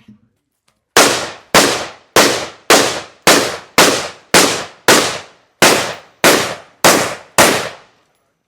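A string of twelve gunshots from a semi-automatic firearm, fired steadily at about two a second, each crack trailing off in a short echo.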